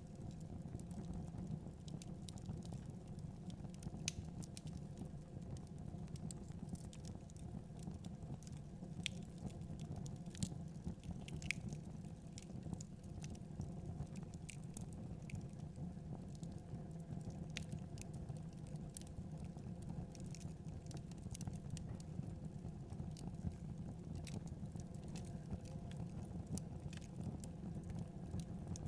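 Wood fire in a fireplace crackling, with irregular sharp pops scattered throughout, over a steady low rumble of blizzard wind.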